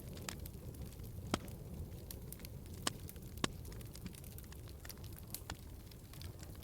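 Wood fire crackling in a fireplace: a steady low rumble of burning under scattered sharp pops and snaps, the loudest about a second and a half, three, and three and a half seconds in.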